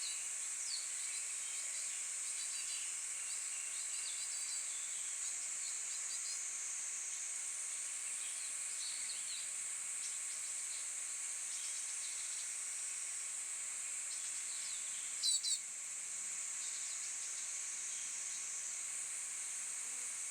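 A steady, high-pitched insect chorus drones throughout, with scattered faint bird chirps. About fifteen seconds in, one short, loud, rapid bird call stands out.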